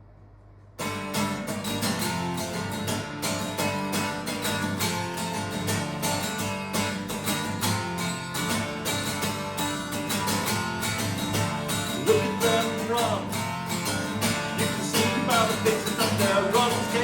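Acoustic guitar strummed in a steady rhythm as the song's introduction, starting about a second in. A higher melody line joins about twelve seconds in.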